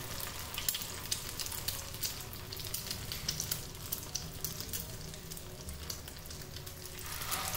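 Egg-coated chicken kabab patty shallow-frying in oil on a flat tawa: a steady crackling sizzle full of tiny pops, growing a little louder near the end.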